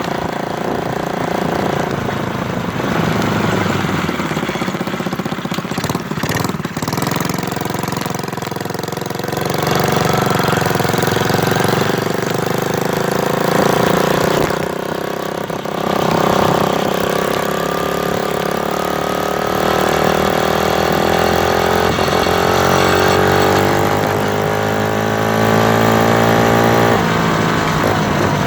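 Motorcycle engine running under way, its revs rising and falling as it accelerates and shifts; the pitch climbs for several seconds and then drops off sharply near the end.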